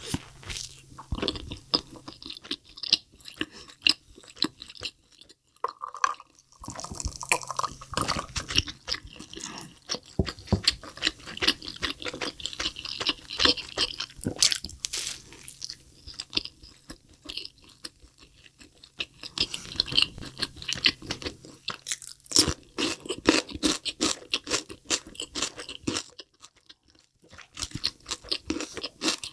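Close-miked eating sounds: biting into and chewing a McDonald's double cheeseburger, wet mouth clicks and smacks in irregular bursts with brief pauses.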